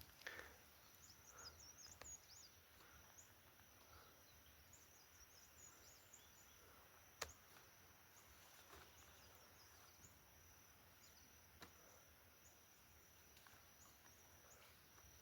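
Near silence: faint outdoor ambience with a steady high-pitched tone and scattered faint high chirps, and a single sharp click about seven seconds in.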